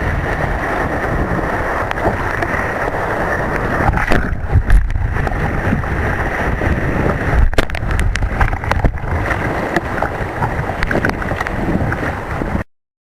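Wind buffeting the microphone over rushing surf and water, with a few sharp knocks; the sound cuts off suddenly near the end.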